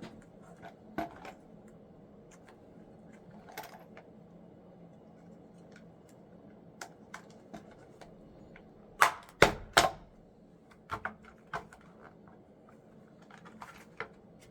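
Small metal parts and hand tools clicking and tapping during work on a snowmobile fuel pump, with three sharp knocks close together about nine seconds in.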